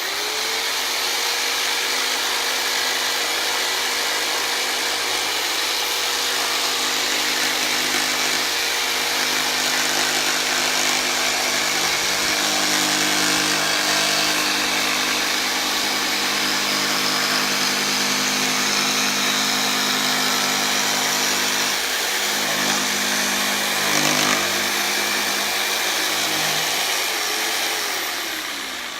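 Corded jigsaw sawing through a wooden board, its blade cutting the door-hanger outline. The motor spins up at the start, runs steadily through the cut and winds down near the end.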